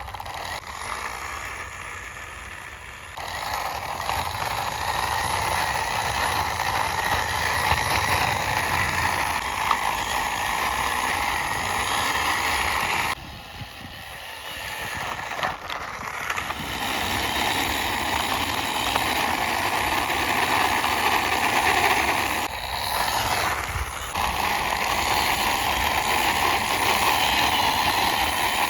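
Plastic wheels of a toy cement mixer truck rolling along a rough boundary wall as it is pushed by hand: a steady grinding rumble that stops briefly twice.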